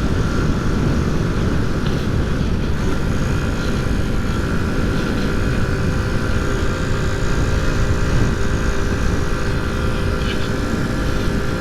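Honda C90's small single-cylinder four-stroke engine running at a steady speed under way, with heavy wind rumble on the microphone.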